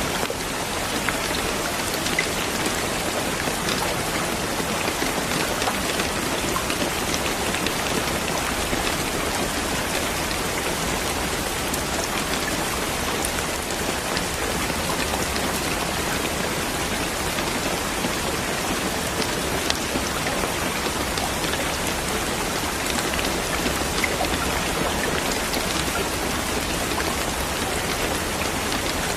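Steady rain falling and pattering on a surface, an even hiss with scattered individual drop taps.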